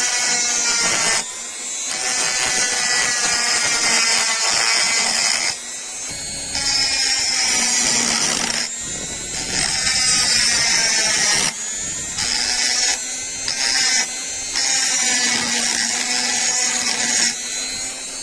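A small electric power tool running against metal: a high hiss over a motor whine whose pitch sags and recovers under load. It comes in short stretches that stop and restart abruptly several times.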